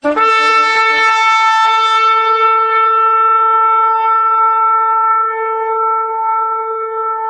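A single long horn blast in the manner of a shofar, the 'trumpet' call heralding Christ's return. It starts abruptly, wavers through a few brief lower notes in the first two seconds, then holds one steady note that slowly fades.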